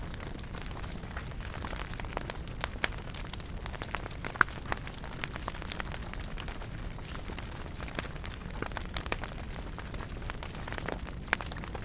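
Campfire crackling: irregular sharp pops and snaps of burning wood over a steady low rush, with the loudest pop about four and a half seconds in.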